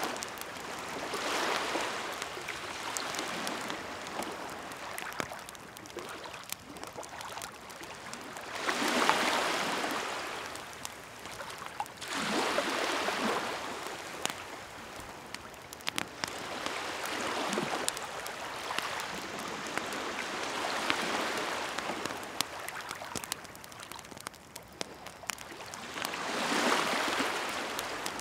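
Waves washing in and drawing back, swelling every few seconds, with a wood campfire crackling and popping in sharp little clicks throughout.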